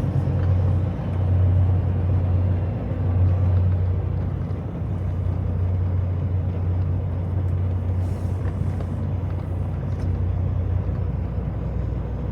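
Semi truck's diesel engine running as a steady low drone, a little louder and uneven in the first few seconds, then even.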